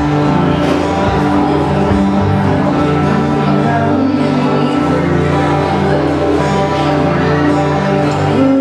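Live Hawaiian music played by a band, a steady run of sustained pitched notes.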